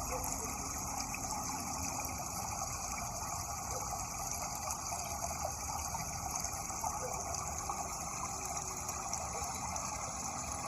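Steady rushing water, an even unbroken flow.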